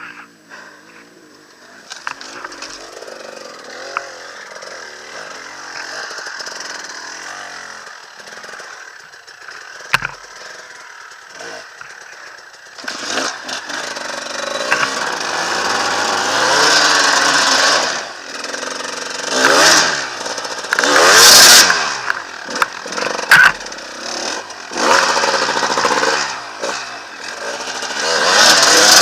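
Enduro dirt bike engine running at low revs with a wavering pitch. About halfway through it starts revving hard in repeated bursts, the pitch climbing and falling with each blip of the throttle. A couple of sharp knocks come through along the way.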